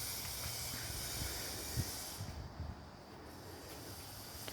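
Wind gusting across the microphone with a steady hiss of rain and an irregular low rumble, easing slightly about two seconds in.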